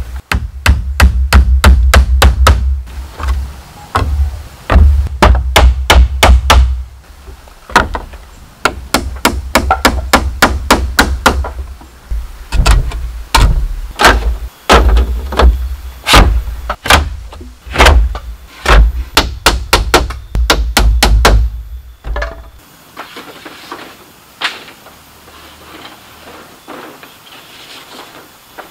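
Hammer blows on bamboo: runs of rapid strikes, several a second, each with a deep thud. The blows stop about 22 seconds in, leaving a faint hiss.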